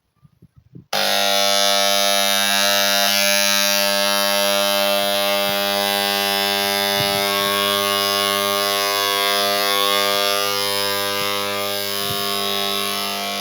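An electric machine switches on abruptly about a second in and runs with a steady, loud buzz.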